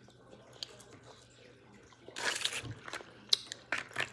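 Close-up eating sounds: chewing and wet mouth clicks on a chocolate snack, with a short noisy burst about halfway through followed by a few sharp clicks.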